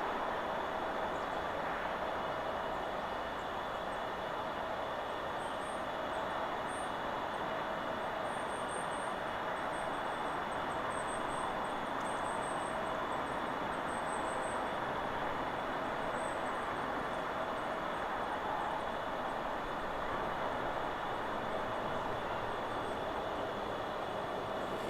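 Steady rushing of wind through forest trees, with faint, very high bird chirps scattered through the middle stretch.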